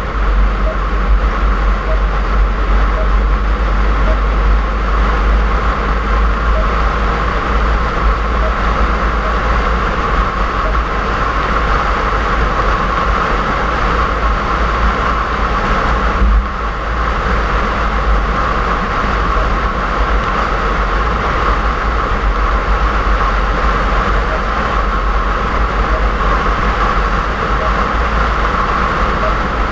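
Steady car driving noise: engine and tyres on snowy road, a low rumble with a constant hiss. The noise dips briefly about halfway through.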